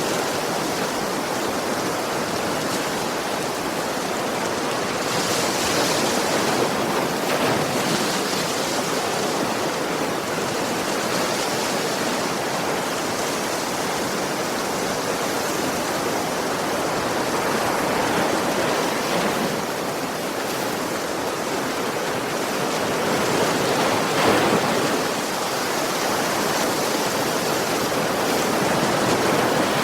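Sea waves washing onto a shore in a continuous steady rush, with a few louder surges swelling up, one about five seconds in and another near the end.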